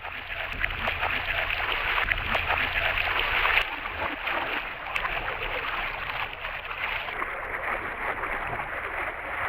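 Floodwater rushing, a steady dense wash of splashing and spattering water with many small crackles.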